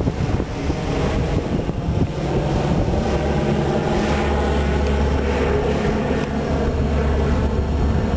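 Aircraft engine running with a steady drone and a strong low rumble.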